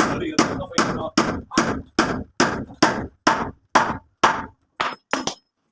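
Chopping: a blade striking wood in quick, even blows, about two and a half a second, about a dozen in all, stopping shortly before the end.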